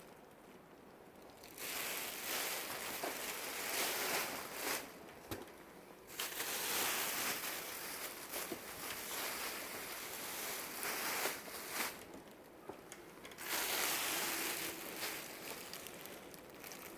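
Rustling and crinkling as dresses are handled and shown, coming in several stretches of a few seconds each with short quiet gaps between them.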